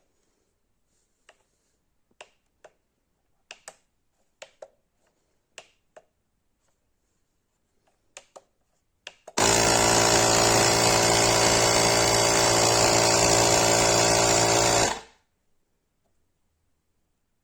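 Portable jump starter's built-in air compressor motor running loudly and steadily for about five seconds, then stopping abruptly. Scattered clicks come before it, as from handling and button presses.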